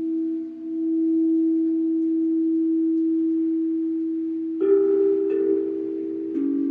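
Crystal singing bowl ringing with a steady low hum that swells about a second in. Near the end, three new bell-like tones are struck one after another and layer over the hum.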